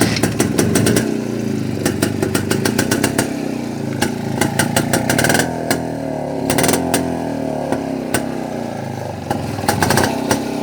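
Jawa two-stroke motorcycle engine running, with clusters of sharp crackling pops at times.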